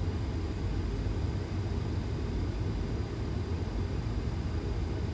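Steady low rumble of a Boeing 737 flight deck on final approach, with gear and flaps down: airflow and engine noise at an even level.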